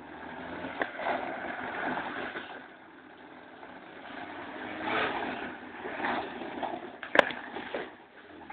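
A motor vehicle's engine running and revving up and down in several swells, with one sharp click near the end.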